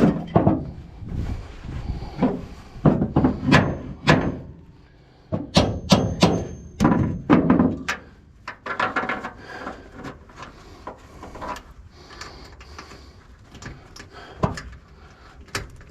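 Steel fifth-wheel hitch parts being worked against the truck-bed rail as a pin is forced toward its groove: repeated metal knocks and clunks, busiest in the first half, then fewer and lighter knocks.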